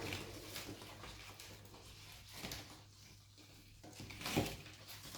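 Quiet handling noises from hands working an orchid's roots and old potting medium: soft rustles and light knocks, the loudest a short knock about four seconds in.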